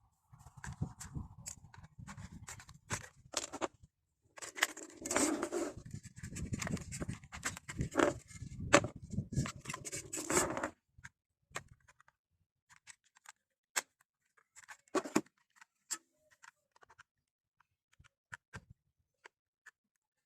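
Hands handling small plastic toys and their packaging: rustling and scraping with many sharp clicks for about the first eleven seconds, then only scattered light clicks and taps.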